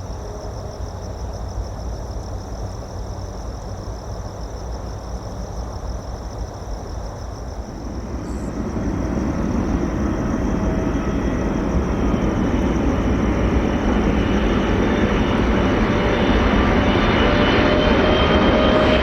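Boeing 747-8F freighter's four GEnx turbofans on landing approach, growing steadily louder from about eight seconds in, with a steady engine whine rising over the low rumble. Before that there is a steadier, more distant jet rumble with a faint high pulsing chirr.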